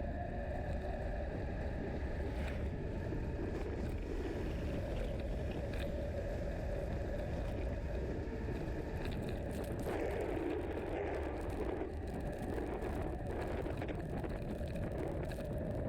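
Bicycle being ridden along: steady wind buffeting on the microphone and tyre noise, under a constant hum.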